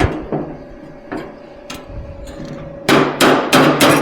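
Metalwork on a steel car fender: a few sharp metallic taps, then near the end several short, loud, crackling bursts in quick succession.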